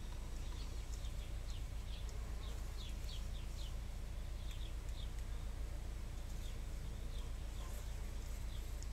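Small birds chirping in quick, short, falling calls, busiest in the first half, over a steady low hum.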